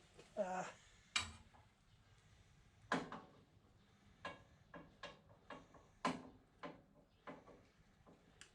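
Metal clinks and knocks from hand tools and parts being handled: about ten sharp separate clinks at uneven spacing, with a short pitched squeak about half a second in.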